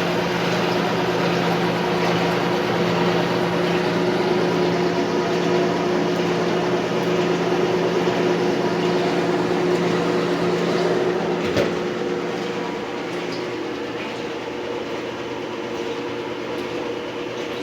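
Lavínia washing machine in its spin cycle: a steady motor hum and drum whir. A single click about two-thirds of the way through, after which the lower hum stops and the sound drops a little.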